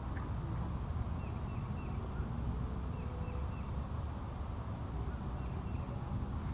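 Outdoor creek ambience: a steady low rumble, most likely wind on the microphone. Over it runs a thin, steady high insect buzz that drops out about half a second in and returns around three seconds. A bird calls several times in short chirps, three at a time.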